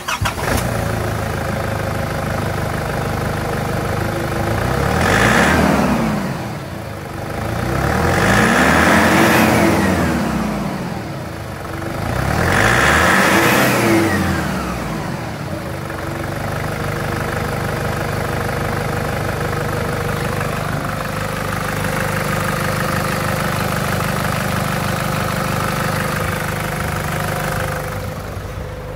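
2005 Nissan Navara's engine starting up and settling to an idle. It is then revved three times, each rev rising and falling in pitch, before it returns to a steady idle.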